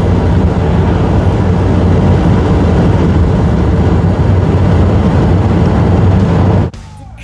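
Car driving at speed: steady road and engine noise with a low hum, cutting off abruptly near the end.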